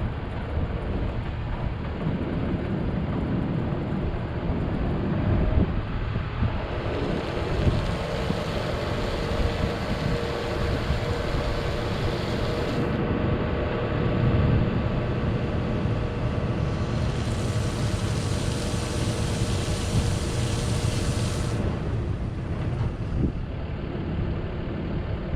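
2013 Ford F750 water truck running with a steady low engine sound and a faint whine. About seven seconds in, and again about seventeen seconds in, a hiss joins it for several seconds.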